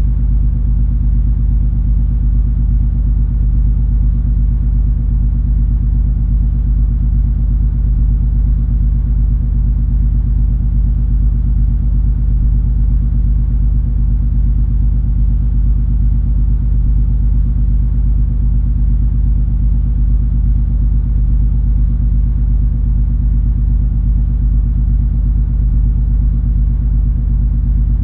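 Steady low rumble and hum of the MS Color Fantasy cruise ferry under way, its engines and machinery droning evenly through the hull.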